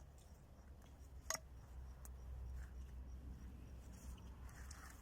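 Faint scratching and rustling of grass being gathered by hand, with one sharp click about a second in, over a low rumble.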